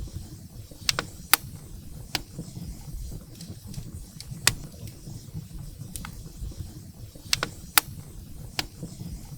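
Wood fire burning in a fireplace: sharp, irregular crackles and pops of burning firewood over a low steady rumble of the flames.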